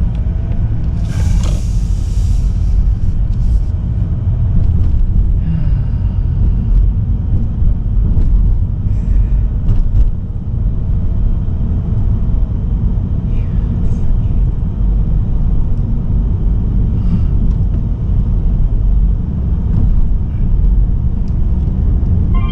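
Steady low rumble of a car on the move, with a brief hiss about a second in.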